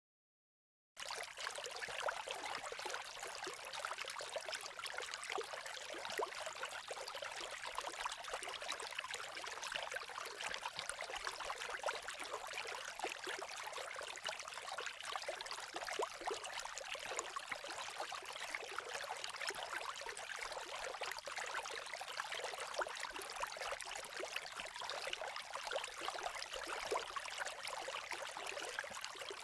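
Babbling creek water, a steady trickling and bubbling flow that starts suddenly about a second in.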